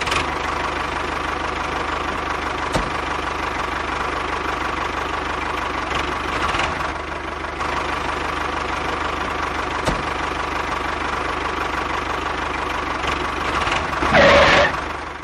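Small motor of a DIY mini model tractor running steadily, an even mechanical hum with a faint constant tone and a couple of light clicks. A brief louder sound with a wavering pitch comes near the end.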